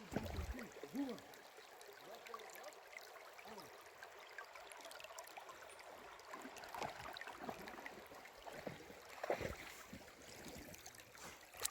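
Faint running creek water trickling, with one louder splash or knock about nine seconds in.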